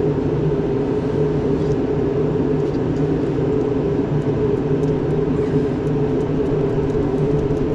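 An engine running steadily at idle, a constant low drone with no change in speed.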